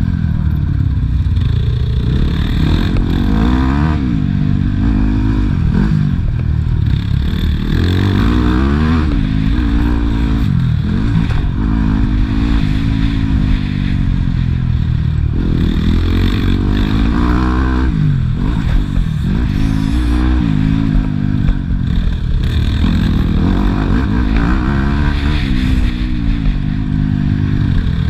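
Motocross bike engines revving hard and falling off again and again, the pitch climbing and dropping every couple of seconds as the bikes accelerate and shut off around the track, at times two engines at once.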